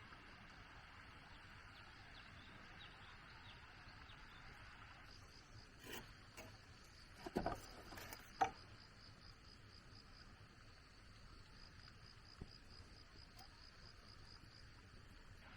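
Faint insects chirping in a fast, even, high-pitched pulsing trill. A few sharp knocks sound about six to eight and a half seconds in, the last of them the loudest, and one more comes near the end.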